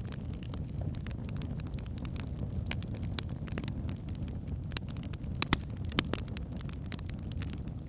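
Wood logs burning in a fireplace: a steady low rumble of the flames with irregular sharp crackles and pops, two of them louder about five and a half and six seconds in.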